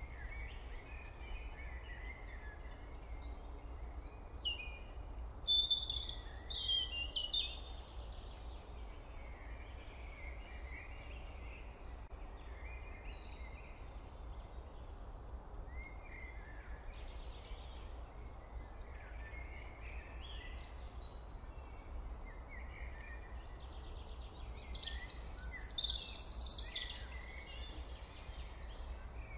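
Birds chirping and calling over a steady low background hum, with two busier spells of calls, a few seconds in and again near the end.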